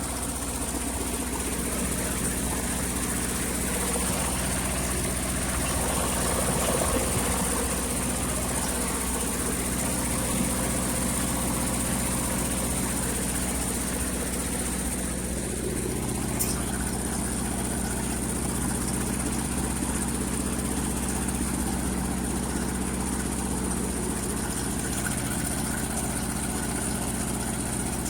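1958 Ford 851 tractor engine running steadily at idle. Its note shifts slightly a few times. A short click comes about halfway through.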